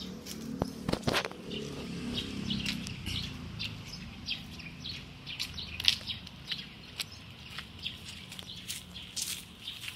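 Small birds chirping, many short high chirps scattered throughout, with a few sharp clicks about a second in.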